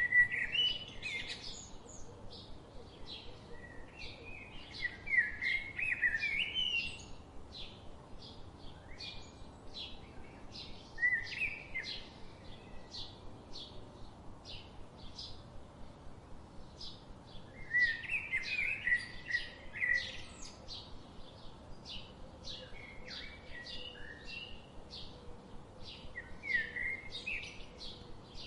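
Songbirds singing: short high chips repeating about twice a second throughout, with louder warbled song phrases breaking in every few seconds.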